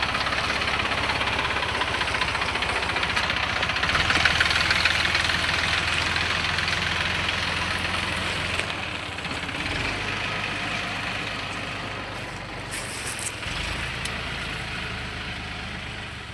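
Deutz-Fahr tractor's diesel engine running hard with a heavy load of sand, loudest about four seconds in and easing off toward the end.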